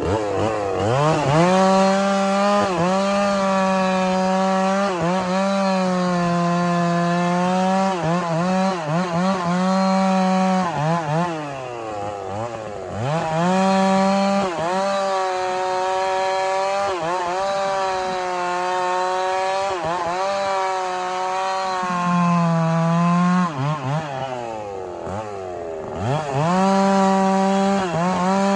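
Chainsaw cutting firewood: the engine runs at full throttle, its pitch sagging again and again as the chain loads in the wood. It drops back toward idle twice, about 12 seconds in and about 25 seconds in, then revs up again.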